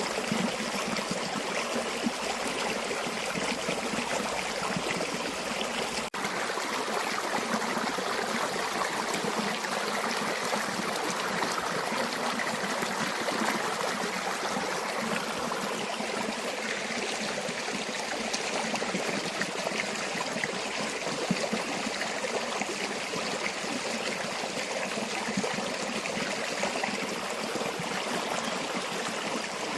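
River water flowing, a steady rushing with trickling, which cuts out for an instant about six seconds in.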